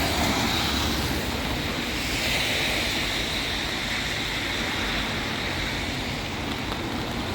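Road traffic on a wet street: a steady hiss of tyres on water, swelling slightly in the middle as vehicles pass.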